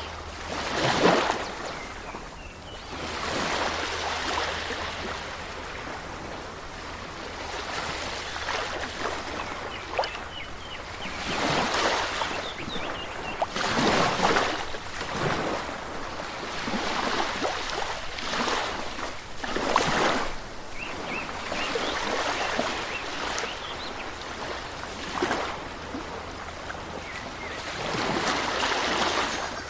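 Moving water in nature, swelling and easing in surges every few seconds.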